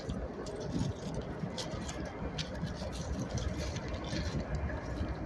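Engine idling: a steady low rumble, with scattered light clicks over it.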